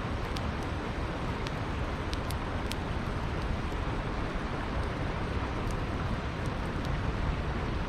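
Campfire crackling, with a few sharp pops from the burning wood, over the steady rush of a flowing river.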